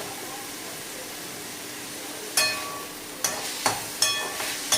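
Chicken keema frying in a kadai with a steady sizzle. From about halfway, a spatula stirs it and knocks against the pan about five times, each knock ringing.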